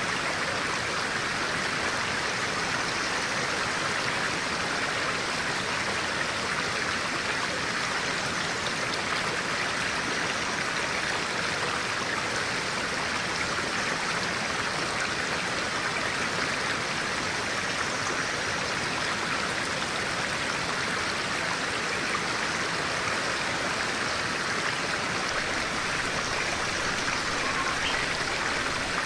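Clear-water stream flowing, a steady, even rush of running water.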